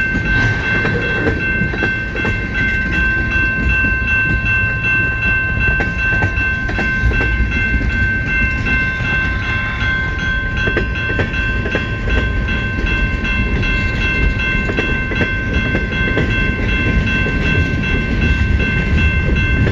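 CN freight train cars rolling past with a low rumble and irregular wheel clicks, over a steady high-pitched whine.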